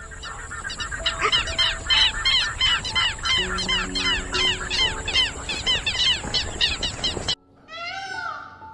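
A dense run of rapid, repeated chirping animal calls, several a second, over gentle background music. It cuts off abruptly about seven seconds in, and a few louder, different calls follow.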